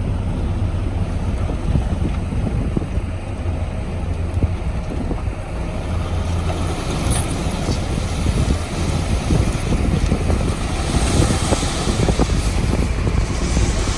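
Heavy construction machinery's diesel engine running steadily, a loud low rumble, with wind buffeting the microphone; a rushing hiss of wind builds near the end.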